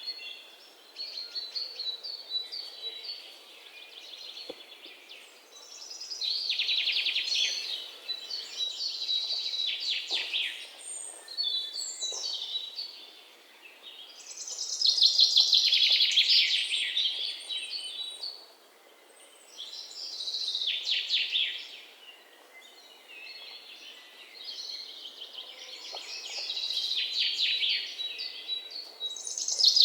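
Songbirds singing: bursts of rapid chirps and trills that come in phrases every few seconds.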